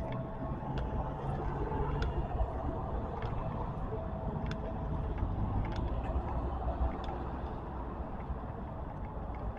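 Street traffic: motor vehicles running, a steady low rumble with scattered light clicks.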